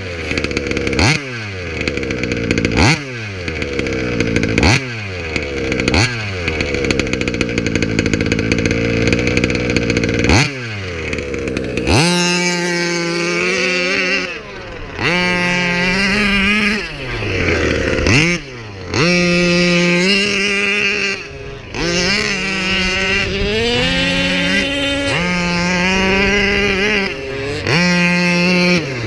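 38cc two-stroke engine of a King Motors Baja 5b RC car with an Olimat expansion pipe, blipped up sharply every second or two with the revs falling away after each. About twelve seconds in it switches to longer runs held at high revs, stepping up in pitch and cutting back between bursts.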